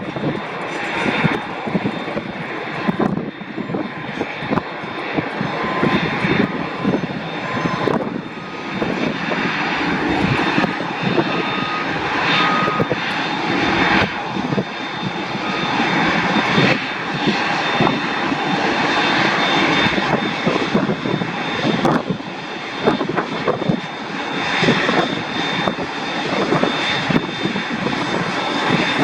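Airliner engines running loud and continuous, with a faint steady whine over the noise.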